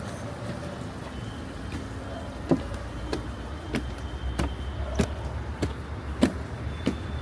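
Footsteps of a person walking at an even pace, about one and a half steps a second, starting a couple of seconds in, over a low steady hum.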